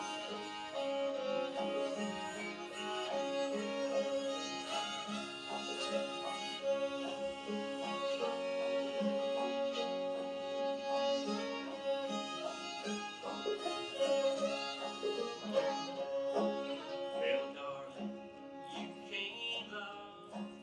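String band playing an instrumental break, a fiddle leading with long bowed notes over plucked guitar and banjo accompaniment.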